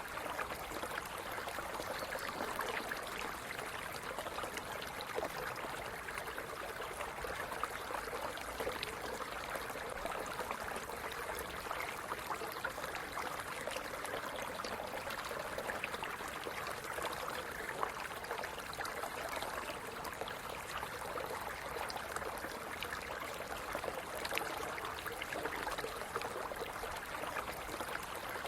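Stream water running and splashing over stones, a steady babble with many small gurgles and drips.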